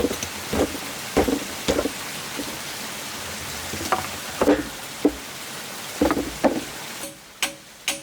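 Irregular hammer blows on a metal chisel, about ten sharp ringing strikes over a steady hiss. About seven seconds in, the hiss cuts out and evenly spaced musical notes begin.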